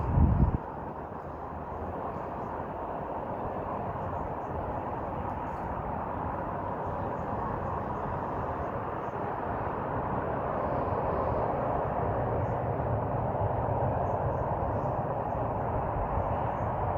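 Unexplained distant drone from the horizon, a steady rumbling, grinding noise that slowly swells, heard over road traffic. A loud low rumble cuts off about half a second in.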